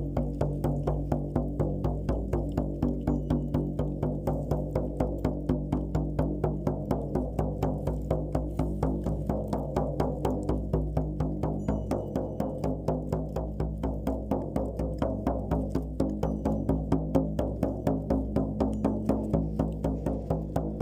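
Shaman's frame drum beaten in a steady, even rhythm, about three beats a second, its deep ringing carrying between strokes.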